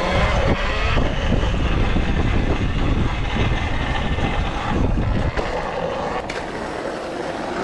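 Wind buffeting the microphone of a rider moving fast on a dirt bike, a loud rumbling rush that eases a little about five seconds in.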